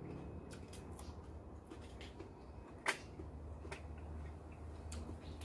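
A person biting and chewing crunchy food, raw vegetables eaten with spicy minced-chicken larb: a scattering of short crunches, one louder crunch about three seconds in, over a faint low hum.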